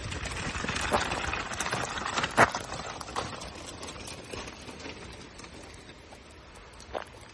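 Footsteps on a walking path, an uneven series of knocks with one sharp one about two and a half seconds in, growing fainter over the second half.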